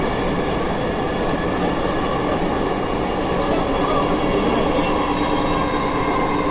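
Dhaka metro train running: a steady rumble of wheels on track with a steady whine of several tones over it.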